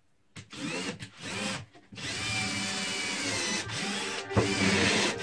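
Electric power tool, a hand drill or similar, running in two short bursts and then held running from about two seconds in, its motor whine wavering in pitch under load.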